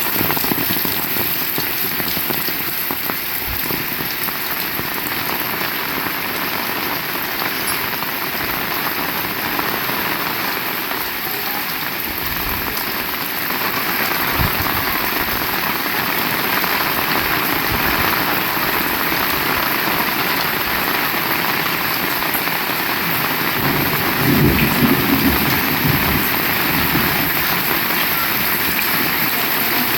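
Heavy rain falling steadily. Thunder rumbles low about three quarters of the way through.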